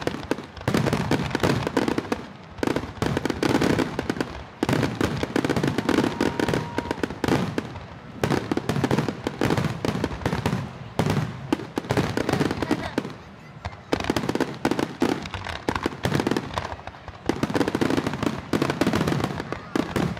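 A fireworks display of aerial shells bursting in rapid succession: clusters of many bangs with short lulls every few seconds.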